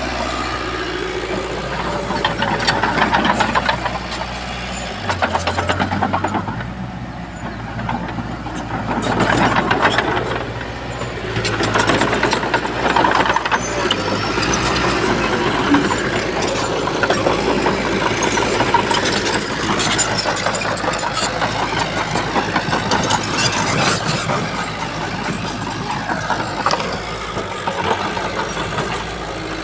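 Diesel engine of a Shantui bulldozer working, running steadily and swelling louder several times as it takes load and eases off.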